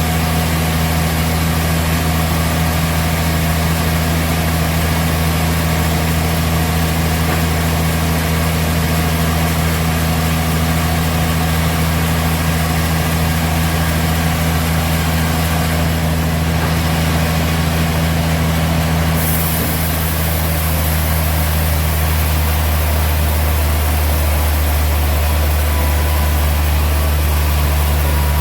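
Sawmill machinery running with a steady, engine-like low hum. About twenty seconds in, its tone shifts slightly and a high hiss grows louder.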